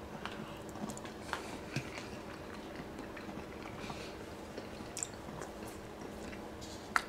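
A person chewing a mouthful of steak, peppers and onions, with scattered short clicks and smacks from the mouth and a sharper click near the end. A faint steady hum runs underneath.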